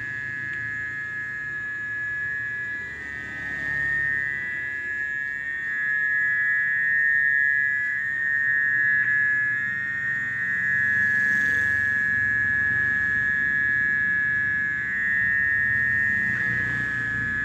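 Steady high-pitched drone of a nocturnal animal chorus at dusk, unbroken throughout, over a low rumble.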